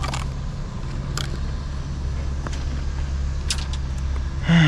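A steady low motor hum with a few faint clicks. Just before the end a louder pitched sound starts.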